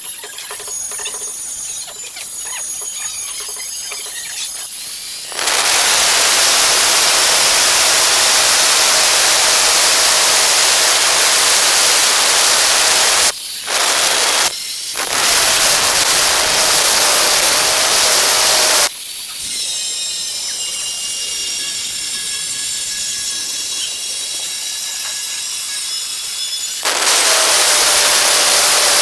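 Angle grinder cutting ceramic tile: a loud, gritty cutting noise while the disc is in the tile, with two short breaks. Between cuts the grinder runs free with a high steady whine, and cutting starts again near the end.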